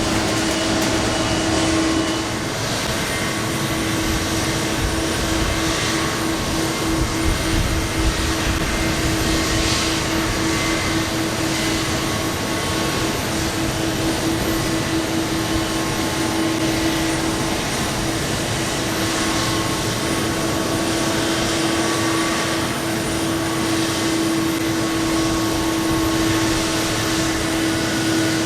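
Pratt & Whitney PW4090 turbofans of a Boeing 777-300 running steadily: a constant tone over an even rush of jet noise, with no spooling up or down.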